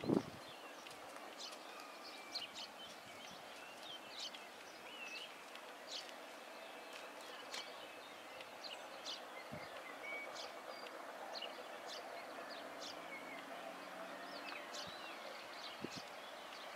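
Several small birds singing, many short chirps and whistles throughout, heard faintly over a low outdoor hiss. A single thump right at the start.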